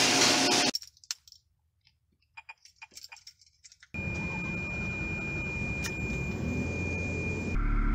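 Small scattered clicks and rattles, like keys being handled, then a steady hum with a thin high whine starts suddenly. Near the end a louder, deeper engine note cuts in: the Ferrari 360's V8 running.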